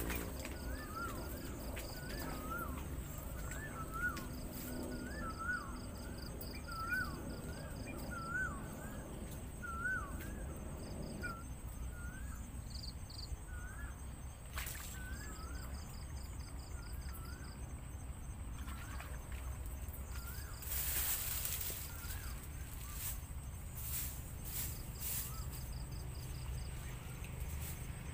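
Field-edge ambience: a bird repeats a short rising-and-falling chirp over and over, with crickets trilling in stretches. A few brief splashes and rustles come from wading and handling a trap in shallow water, the loudest about two-thirds of the way through.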